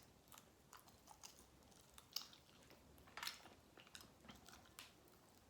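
Faint close-up chewing of a sauced chicken wing, with scattered short wet smacks and crunches about once a second.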